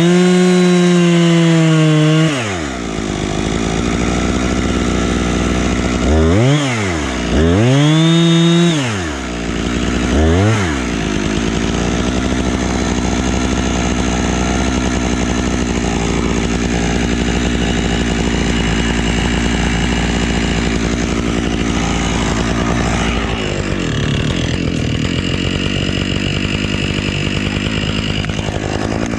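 Husqvarna two-stroke chainsaw revved to full throttle and held for about two seconds, then blipped up three more times in quick succession before settling back to a steady idle.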